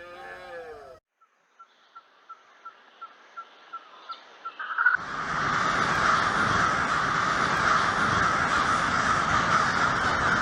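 Animal calls: a pitched call ending about a second in, then short high pips that come faster and faster and run together into a loud continuous call.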